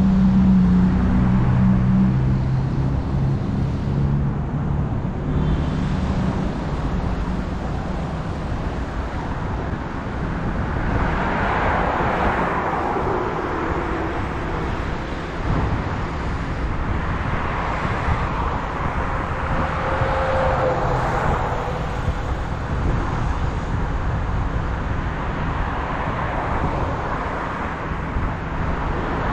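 Car being driven: steady low road and engine rumble, with a rushing tyre and traffic noise that swells and fades several times.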